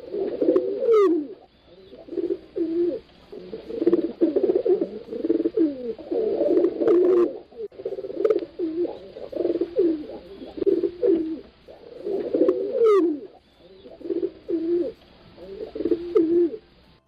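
Pigeons cooing over and over, their low calls overlapping almost without a break, with a brief higher falling note about three times.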